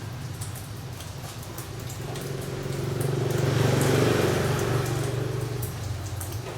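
A passing motor vehicle: its noise swells to its loudest about four seconds in and fades again, over a steady low hum, with scattered light clicks.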